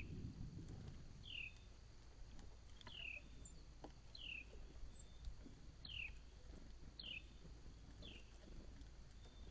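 A bird calling outdoors, repeating one short, clear note that falls in pitch, about every second or so, over faint low background rumble.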